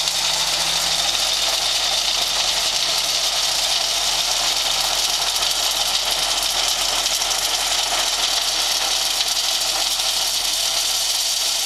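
Dump truck unloading a load of stone: the engine running while the stone slides off the tipped bed, a steady rushing noise with no let-up.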